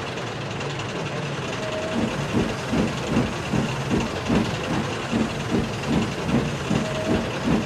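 Train running sound effect: a steady locomotive rumble with hiss, joined about two seconds in by a regular clatter of about two and a half beats a second, and a brief squeal twice.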